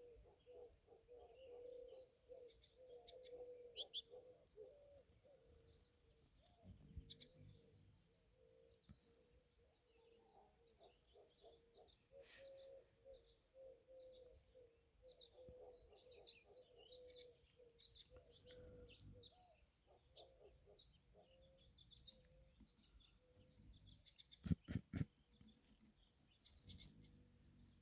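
Small songbirds at the feeders chirping and twittering faintly and often, over a steady low hum. A quick cluster of sharp clicks or taps near the end is the loudest sound.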